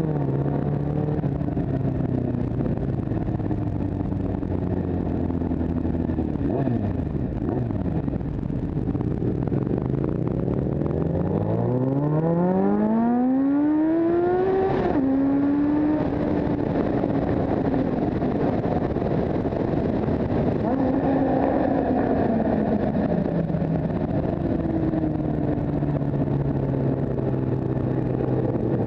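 Motorcycle engine running under way. About halfway through, the revs climb steadily for several seconds, then drop suddenly at a gear change. The engine holds a higher steady pitch, then eases back down to a low drone near the end.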